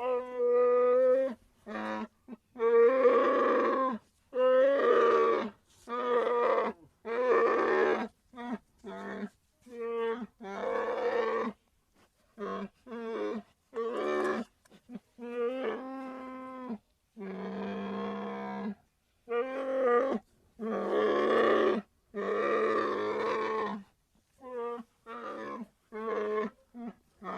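A bear calling again and again: a string of short, pitched vocal calls, each lasting from about half a second to two seconds, with brief silent gaps between them.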